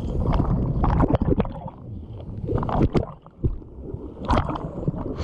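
Water splashing and sloshing close to the microphone in irregular splashes over a low rumble, with a brief lull about three seconds in.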